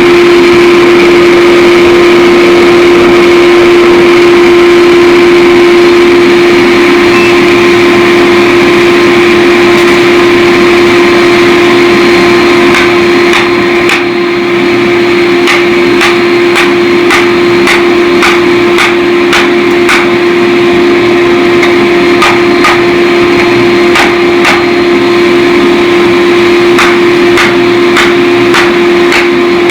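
Steady loud machine drone in a forge shop, with hammer blows on steel starting about halfway through, irregular and roughly one or two a second.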